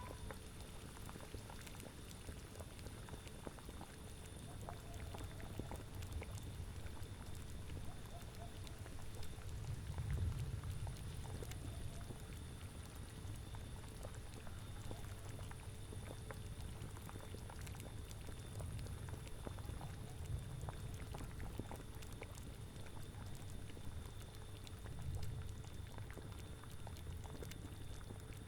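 Cauldron of liquid boiling, a continuous dense bubbling, over a steady low rumble that swells briefly twice.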